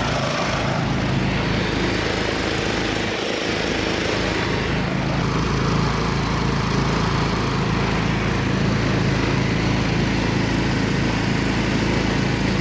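Engine of a homemade karakat running steadily under load as it crawls through deep snow in second low gear.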